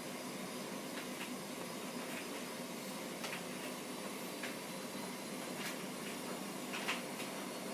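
Steady low background hiss with a few faint, irregular ticks.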